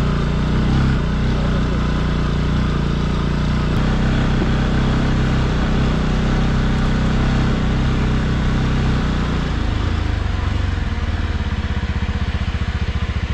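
Bajaj Pulsar NS200 motorcycle's single-cylinder engine running under way; about ten seconds in it drops to a slower, even pulsing beat as the revs fall.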